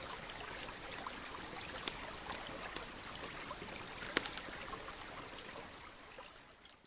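Campfire crackling with scattered sharp pops over the steady rush of a stream, fading out over the last couple of seconds.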